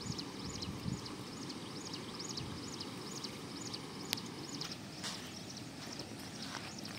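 A bird calling a short high note over and over, about two to three times a second, over steady outdoor background noise. There is a single sharp click about four seconds in, and a few brief rustles near the end.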